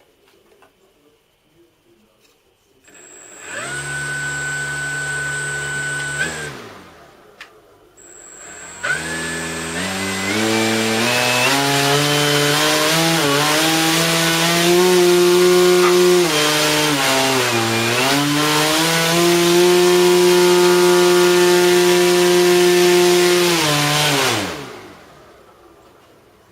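Brushless outrunner electric motor of a large scale model aircraft spinning its propeller on a motor test. It makes a short run at part throttle about three seconds in and winds down, then starts again and steps up to a high steady pitch, dips briefly about two thirds of the way in, and winds down about two seconds before the end.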